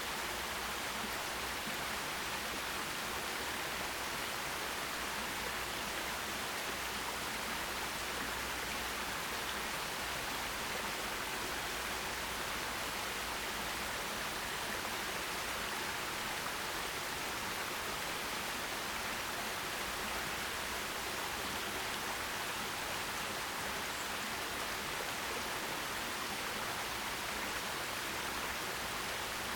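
Forest stream water running over rocks, a steady even rushing hiss with no breaks.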